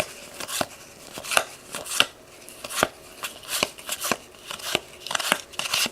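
Hockey trading cards being flipped through one at a time out of a freshly opened pack, a short sharp snap about twice a second with soft sliding between.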